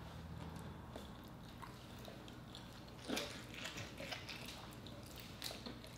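Mouth sounds of biting into and chewing soft lobster tail meat: a cluster of short wet smacks and clicks starting about three seconds in, after a faint steady hum.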